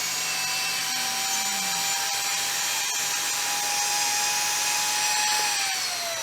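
Four QF2611-4600KV brushless EDF motors spinning without their impellers, armed through a flight controller, giving a steady electric whine of several tones at once. The pitch starts to drop near the end. The owner doesn't like the sound and blames the flight controller straining to level the quad against a crooked table.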